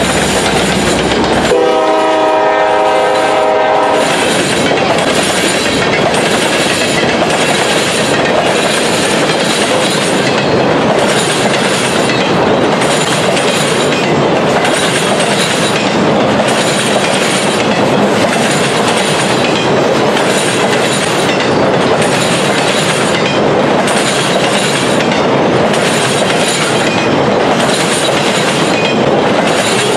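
A freight locomotive horn sounds one steady blast for about two and a half seconds, starting a second or so in. After that come the steady rumble and clatter of loaded freight cars rolling past close by, with a wheel clack about once a second.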